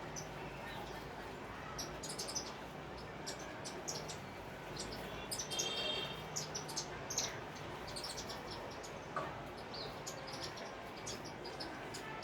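Sparrows chirping: many short, high chirps scattered throughout, coming thicker from about five seconds in, over a faint steady hum.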